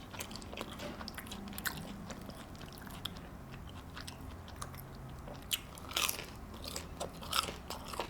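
A person chewing a breaded, fried mozzarella stick, with scattered crunches of the breading, a few of them louder in the second half.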